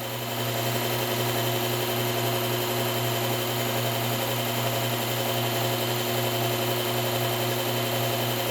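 Powered belt sharpener running free with no blade on the belt: a steady motor hum with an even whir.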